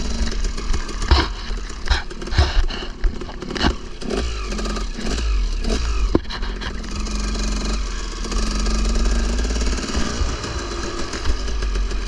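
KTM 300 two-stroke dirt bike engine running and revving up and down while riding, with a few sharp knocks and clatters and a steady low rumble on the microphone.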